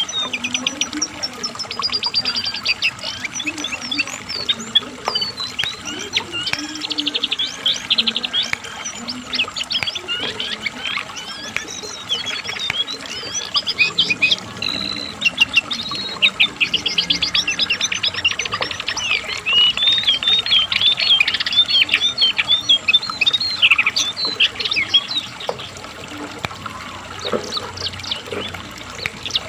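Cingcoang coklat (jongkangan coklat, a brown shortwing) singing in full voice: a fast, varied, almost unbroken run of sharp chirps, rapid trills and short whistled phrases.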